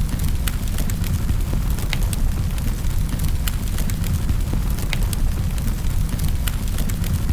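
Wood fire crackling in a fireplace: a steady low rumble of the flames with irregular sharp pops and snaps, several a second.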